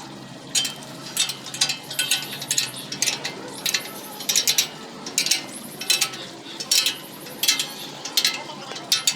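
Ratchet wrench clicking in short repeated strokes, about one to two a second, with each stroke a quick run of pawl clicks.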